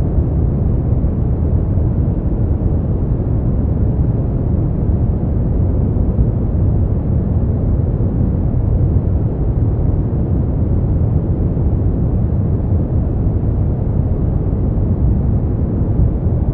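Steady, deep brown noise: an even, unbroken hiss weighted heavily toward the low end and dying away in the highs.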